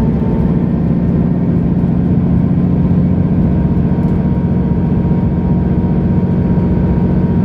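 Mercedes-Benz O530 Citaro Facelift Ü city bus's diesel engine running steadily as the bus drives, a constant low drone with no gear change or pause.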